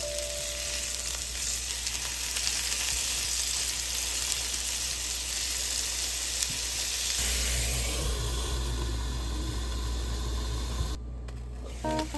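Tofu hamburger steaks sizzling in hot oil in a nonstick frying pan: a steady frying hiss that turns duller about seven seconds in and stops abruptly near the end.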